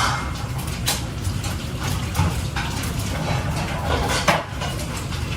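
Kitchen work sounds: a few short clinks and scrapes over a steady low hum.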